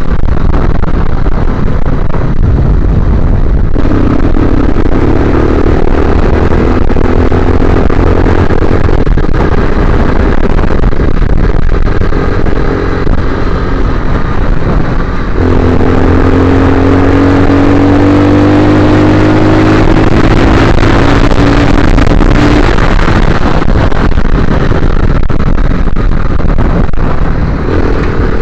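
Motorcycle engine running under way with heavy wind noise. Its pitch climbs slowly twice as it pulls under throttle, about four seconds in and again past the middle.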